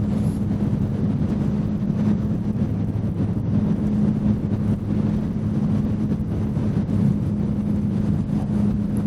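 Motorcycle engine running at steady revs, its pitch holding level, under wind and road noise on the microphone.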